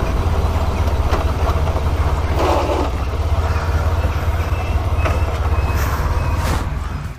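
125cc motorbike engine running steadily under way, a strong low rumble, with a few scattered knocks.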